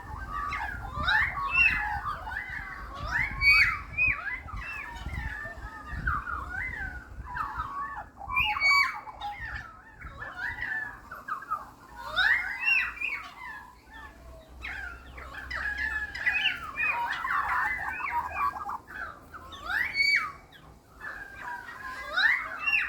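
Several birds calling and chattering together without a break, in quick up-and-down chirps.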